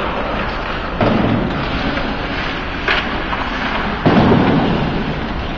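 Ice hockey play in an echoing rink: loud booming bangs against the boards about a second in and again around four seconds, with a sharp crack near three seconds, over steady rink noise.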